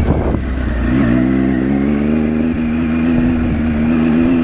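Triumph Tiger 800's three-cylinder engine pulling the bike along. Its note rises for about a second, then holds steady.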